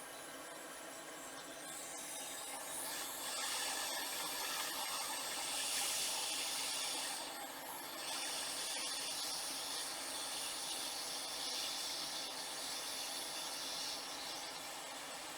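Hot air rework station blowing at maximum temperature, a steady airy hiss that grows louder about two seconds in and briefly dips about seven seconds in. It is heating the solder joints to desolder a laptop's charging port from the motherboard.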